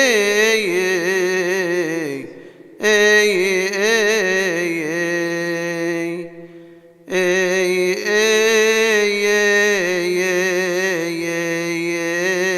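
A male deacon's solo voice chanting a Coptic Orthodox hymn in long melismatic phrases, the pitch turning and ornamenting within each held note, with two short breaths between phrases.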